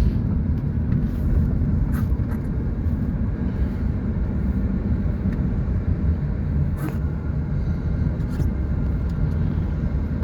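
Car driving along a road, heard from inside the cabin: a steady low rumble of engine and tyres, with a couple of faint clicks.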